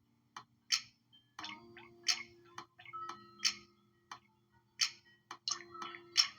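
A slow, even ticking, about one sharp tick every second and a half, over faint held tones.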